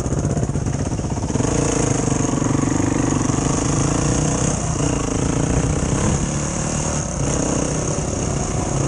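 Motorcycle engine running steadily, its pitch rising and falling several times as the throttle changes, over a constant hiss.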